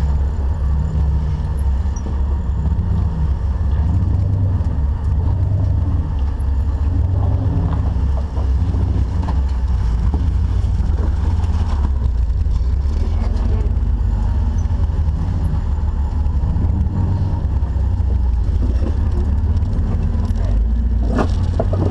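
Engine of an off-road 4x4 running steadily at low speed, a continuous low rumble.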